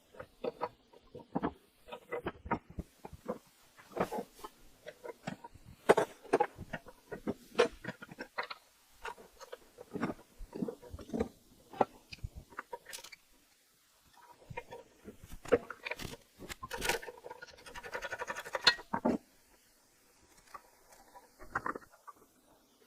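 Hand tools and metal parts being handled while an old air compressor is dismantled: irregular knocks, clinks and scrapes, with a denser rattling stretch a little past the middle.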